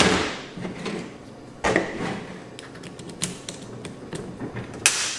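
Clicks and knocks of a screwdriver bit and a drill being handled as the bit is fitted. There are sharp knocks at the start, at about a second and a half in, and near the end, with lighter clicks between them.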